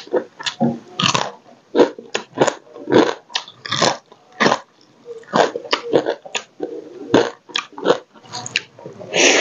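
Close-miked crunching and chewing of small fried crabs, a rapid, irregular run of crackling bites and wet mouth sounds.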